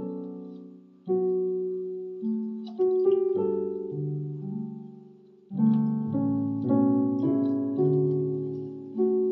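Electronic keyboard in a piano voice playing a slow Korean drama soundtrack tune: chords and melody notes struck and left to ring out and fade, sparse at first and busier in the middle.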